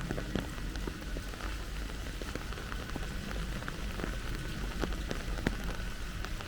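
Steady rain falling, with a continuous hiss and many individual drops ticking irregularly on nearby surfaces. A low steady rumble runs underneath.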